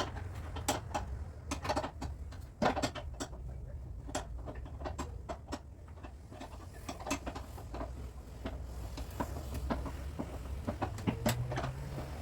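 Irregular light clicks and knocks, several to a second, a few of them sharper, over a steady low hum.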